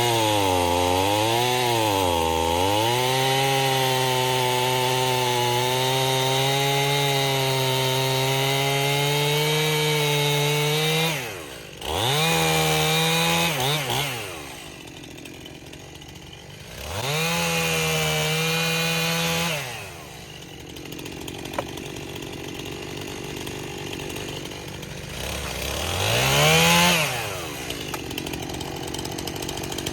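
Gas two-stroke chainsaw cutting through wood at full throttle, its engine pitch sagging and recovering under load. It then drops back to idle about eleven seconds in and is revved in three short bursts.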